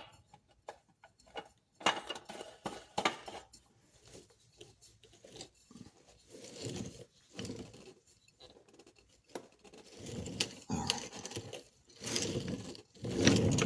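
Scattered light clicks, taps and scrapes of hand work on car parts as a new oil filter is threaded on hand-tight.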